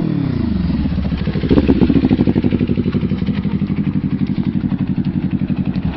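Kawasaki Ninja 400 parallel-twin through an SC Project aftermarket muffler. The exhaust note falls in pitch at the start, then settles into a steady, low, pulsing burble near idle, loudest about a second and a half in.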